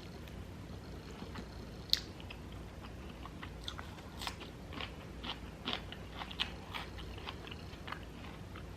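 A person biting and chewing crunchy food: one sharp crunch about two seconds in, then a run of smaller crunches as the chewing goes on.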